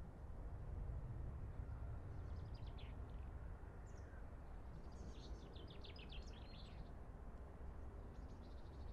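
Small birds chirping in quick runs of high notes, one burst about two seconds in and a longer, denser run from about five to seven seconds, over a steady low rumble.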